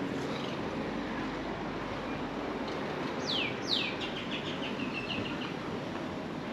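A bird calling over a steady street hiss: about three seconds in, two quick falling whistles, then a short run of clipped notes that fade.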